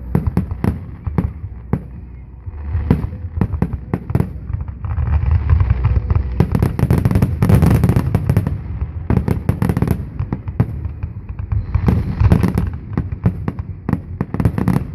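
Aerial fireworks display: a rapid string of sharp bangs and crackles over a low rumble, thickest from about five to nine seconds in and again near the end.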